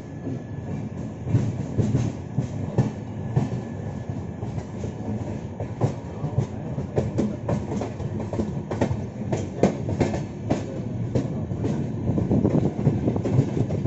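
Passenger train running on the track: a steady low rumble with many irregular clicks and clacks of the wheels over the rails.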